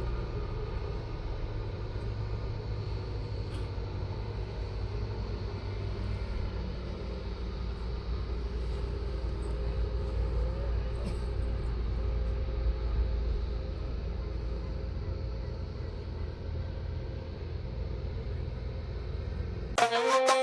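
Steady low rumble with faint background voices. Music cuts in just before the end.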